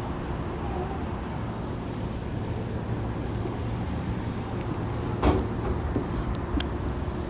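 Steady low hum inside a Saitama Rapid Railway 2000 series train car. A single sharp knock comes about five seconds in, followed by a few lighter clicks.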